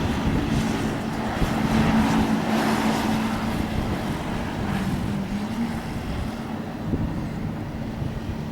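Airbus A350 jet engines, a steady rumble and hiss with a low hum, swelling about two seconds in and dipping briefly in pitch about five seconds in.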